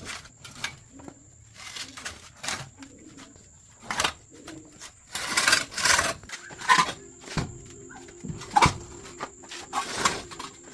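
Irregular hand scraping and rubbing strokes, with two sharp knocks towards the end.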